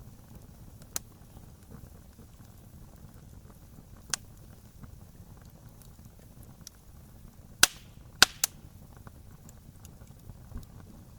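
Wood campfire burning, with a steady low rush of flame and scattered sharp crackles from the burning wood. Three loud pops come close together about two-thirds of the way through.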